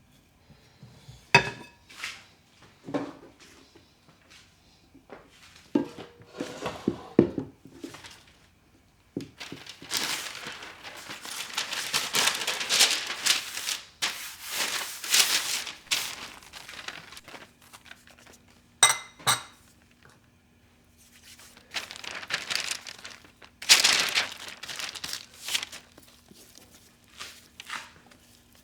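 Kitchen items being handled: long stretches of crinkling and rustling, like packaging or paper, with scattered knocks and a few clinks of dishes. A faint low hum comes in about two-thirds of the way through.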